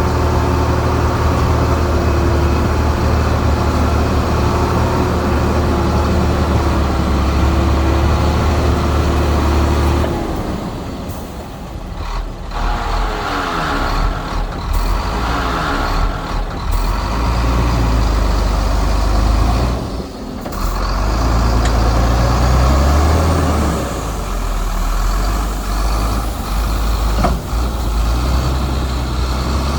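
Heavy diesel earthmoving machinery running. A steady low engine drone gives way, about ten seconds in, to an engine whose load rises and falls, with a few sharp clanks and short drops in level.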